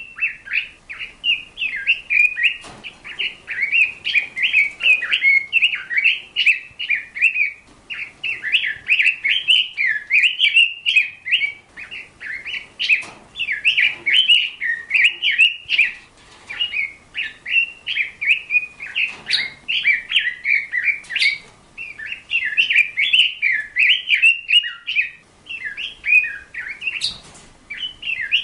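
A songbird singing a long, continuous song of rapid high chirps and trills, with only brief pauses.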